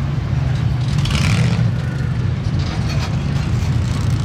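Motor vehicle engine running steadily at a constant low pitch, with a brief hiss about a second in.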